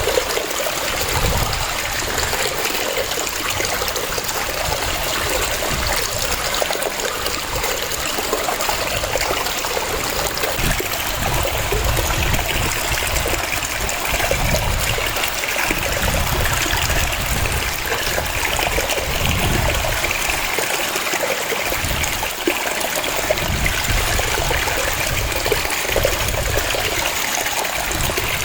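Waterfall cascading: a steady, unbroken rush of falling water, with an uneven low rumble underneath.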